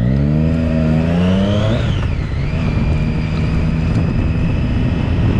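Motorcycle engine revving, its pitch climbing unevenly for about two seconds, then dropping back and running steadily.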